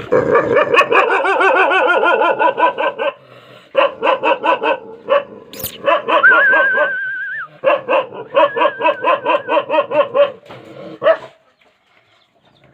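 Rajapalayam dogs barking in rapid, repeated volleys, about four to five barks a second, stopping about a second and a half before the end.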